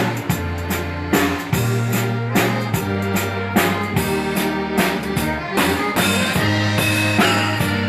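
Texas Czech dance band playing live, with drum kit keeping a steady beat over held bass notes.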